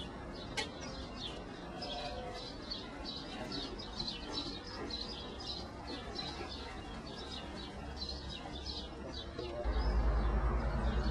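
Birds chirping busily, many short quick chirps one after another. A louder low rumble comes in near the end.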